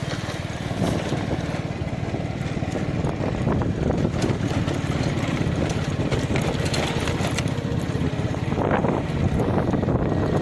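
A 70 cc motorcycle engine running steadily as the bike is ridden.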